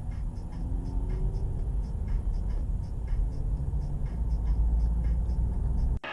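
A car on the move: a steady, loud low rumble of engine and road noise with faint regular ticks above it, cut off abruptly near the end.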